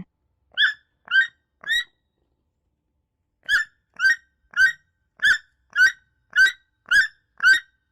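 Toucan calling: short, sharp calls repeated, three at first, then after a pause of about two seconds a steady run of about two calls a second.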